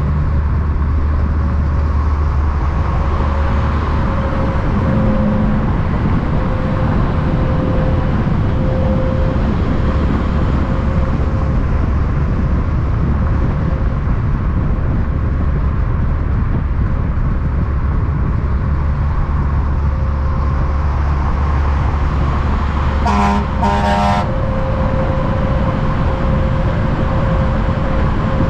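Heavy road traffic, with truck engines giving a steady low rumble, then two short horn toots about a second apart near the end.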